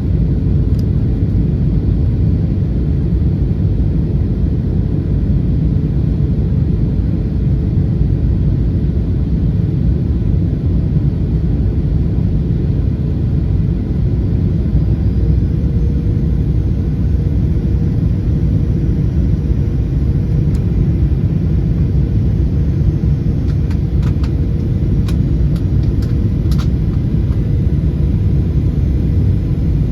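Steady cabin noise inside a Boeing 737-800 airliner: a loud, even low rumble with a faint steady hum, and a few faint clicks from about 23 to 27 seconds in.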